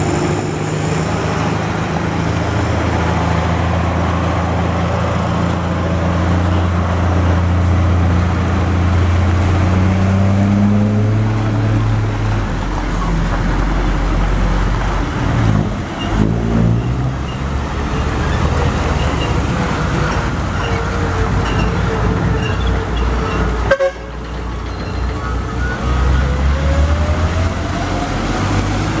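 Heavy truck engines running and revving as trucks crawl over a broken, potholed road, with a vehicle horn sounding. The sound drops suddenly about 24 seconds in.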